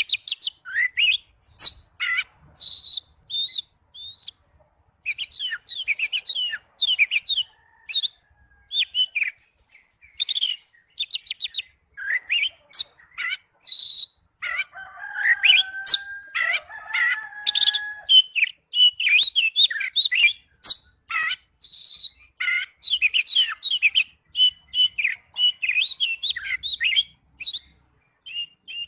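Oriental magpie-robin singing a long, varied song of rapid chirps, trills and whistles broken by short pauses, with a stretch of lower, drawn-out notes about halfway through.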